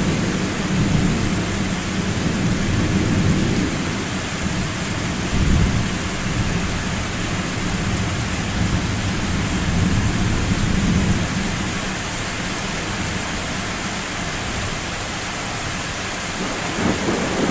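Thunder rumbling low and rolling in slow waves over the steady hiss of rain in a summer thunderstorm.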